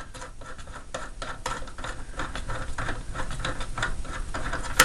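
Rapid, irregular small clicks, taps and scrapes of hands and tools working on a light plastic mini fridge, with one sharp louder click near the end.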